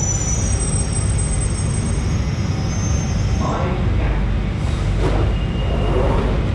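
London Underground Central Line train moving at the platform with a steady low rumble and high-pitched wheel squeal that stops about three and a half seconds in.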